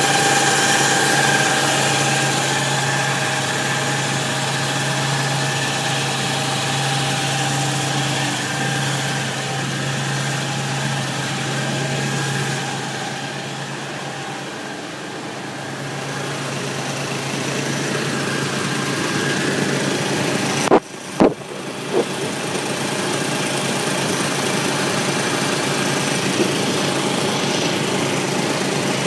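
Car engine idling steadily, heard close up in the engine bay. About two-thirds of the way in there are three sharp knocks in quick succession.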